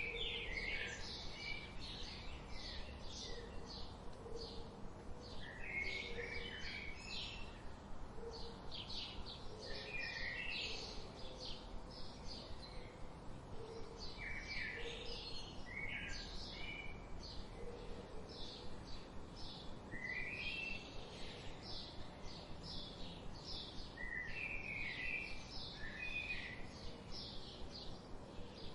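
Wild songbirds chirping and singing: a steady run of short high chirps, with a lower warbled song phrase coming back every four to five seconds and a faint low repeated call underneath.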